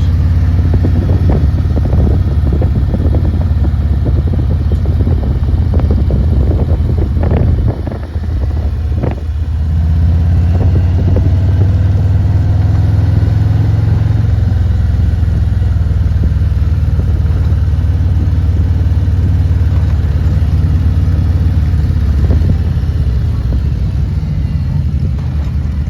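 Motorcycle engine running steadily while riding, with wind noise over it; the sound drops briefly about eight seconds in, then picks back up.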